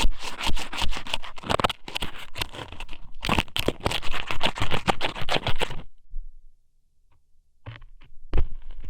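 Strips of dried squid (ika sōmen) scraping and crackling inside the ear of an ASMR microphone in quick, dense strokes. The strokes stop about six seconds in, and a few scattered crackles start again near the end.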